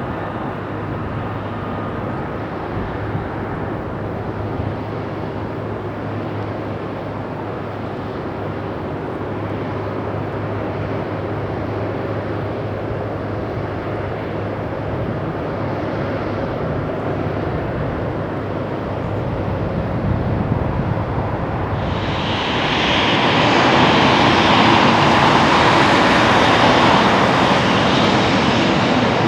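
Jet engines of a Boeing 777F freighter running steadily, with a low hum. About 22 s in the sound switches abruptly to a louder, hissier jet engine noise from a Lufthansa Embraer 190 regional jet.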